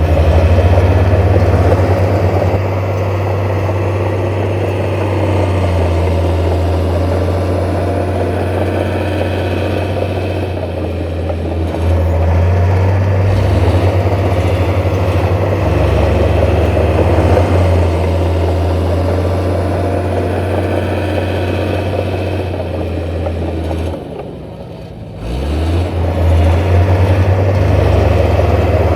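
Heavy diesel engine of earthmoving machinery running steadily under load. Its level drops briefly about 24 seconds in, then the engine revs back up.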